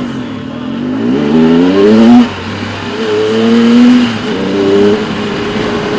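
Adventure motorcycle engine accelerating under load. Its pitch climbs, then drops suddenly at an upshift about two seconds in, and climbs and shifts again around four and five seconds in.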